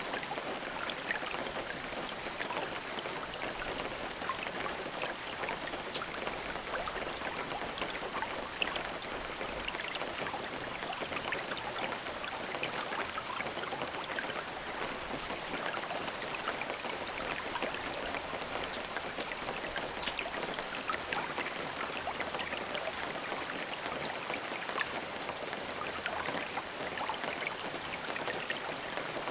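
Steady rain, with many separate drops pattering on a surface over an even hiss.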